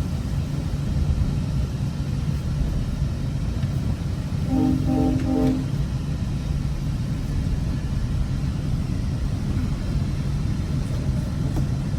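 GO Transit commuter train running, heard from inside the coach as a steady low rumble. A train horn sounds briefly about four and a half seconds in, in short blasts lasting about a second.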